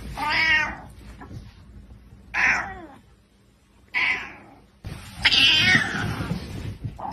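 An angry grey tabby cat meowing four times, the last call long.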